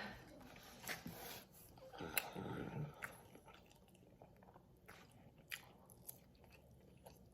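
A person chewing and biting into orange chicken close to the microphone, faint, with scattered small clicks and a louder stretch of chewing about two seconds in.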